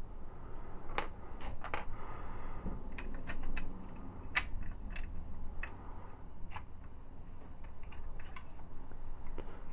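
Parts of a Transformers figure clicking and knocking together in irregular taps as they are handled and fitted during reassembly.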